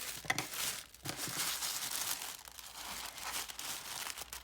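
Packaging being handled while a subscription box is unpacked: continuous rustling and crinkling.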